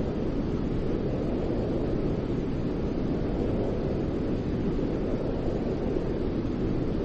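Steady, unchanging white noise, a deep rushing hiss weighted toward the low end, with no rhythm or breaks.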